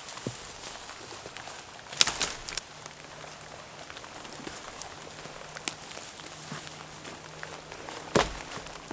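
Steady heavy rain falling, with a short cluster of sharp knocks about two seconds in and a single louder knock near the end.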